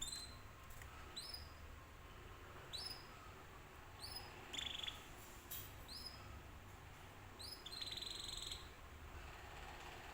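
Domestic canary calling: short rising chirps about every second or so, broken twice by a brief buzzy trill.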